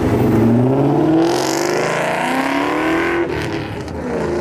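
Car engine accelerating hard, its pitch climbing steadily for about three seconds, dropping briefly at an upshift, then climbing again.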